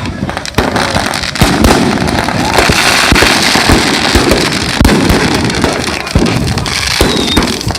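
Firecrackers going off in a dense, continuous barrage: many sharp bangs overlapping with a steady crackle, with no break.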